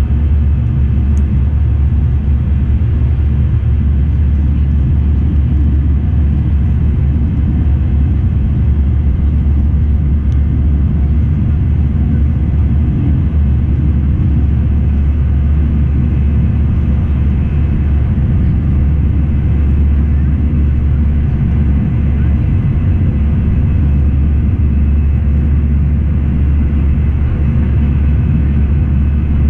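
Airbus A319 airliner heard from inside the cabin: a steady, loud low rumble of jet engines and airflow that does not change.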